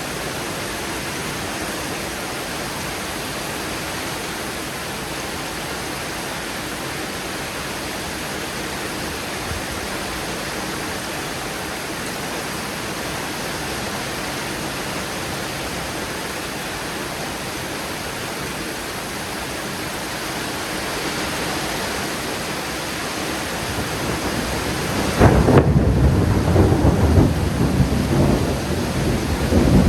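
Steady heavy rain through a thunderstorm; near the end a loud clap of thunder breaks suddenly and rumbles on.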